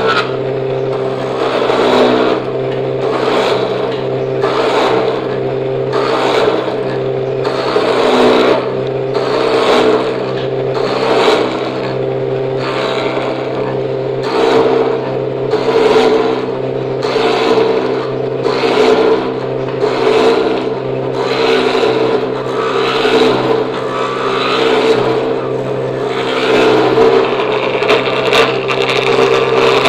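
Electric wood planer machine running steadily under its motor hum, with a rasping cutting noise that swells about once a second.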